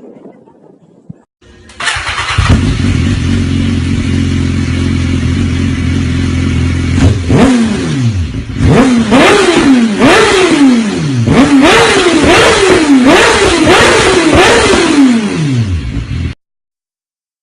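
Motorcycle engine running loudly at a steady speed, then revved up and down repeatedly, about once a second, before cutting off abruptly.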